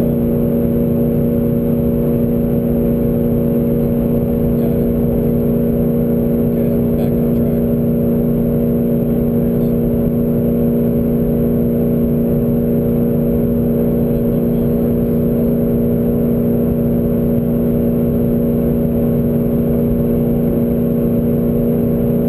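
Car engine droning at a constant speed, heard from inside the cabin with low road and wind rumble: the car is holding a steady high cruising speed.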